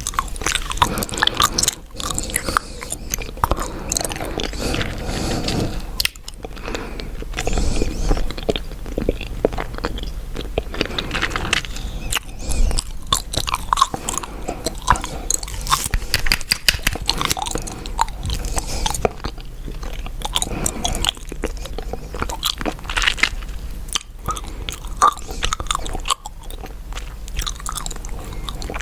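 Chewing gum close to the microphone: a dense, continuous run of small wet clicks and crackles, broken by a few brief pauses.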